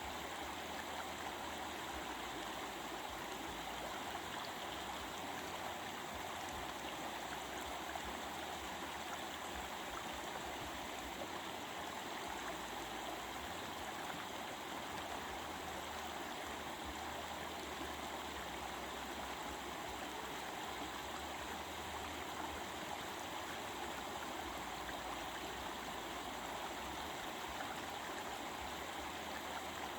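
Stream water flowing over rocks, a steady babbling rush.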